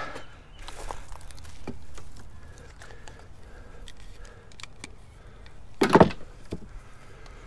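Scrap being handled and moved about: scattered light clicks, knocks and rattles, with one loud clank about six seconds in.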